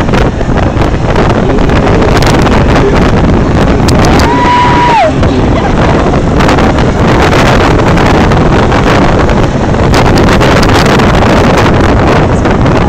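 Heavy wind buffeting on the microphone over motorcycle engines running, a dense and loud din. About four seconds in, a short high tone rises, holds for under a second and falls away.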